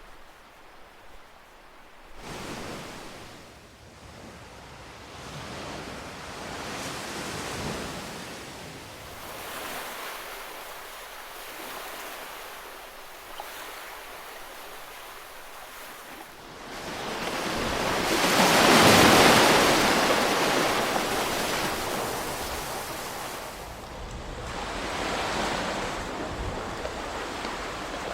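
Ocean waves washing on a shore, a rushing surf that swells and fades several times, with one much larger wave breaking about two-thirds of the way through.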